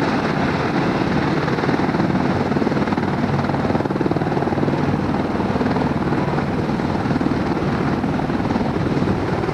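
Helicopter running, a loud, steady rotor chop with engine noise.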